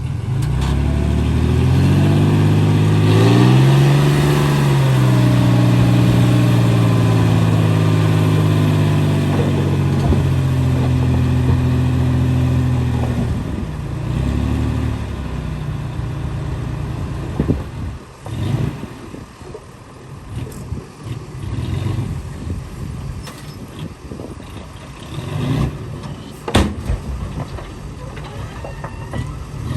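Heavy diesel engine of earthmoving machinery revving up over the first few seconds and holding high revs under load for about ten seconds, then dropping back. After that come irregular clanks and knocks over a lower engine sound, with one sharp bang near the end.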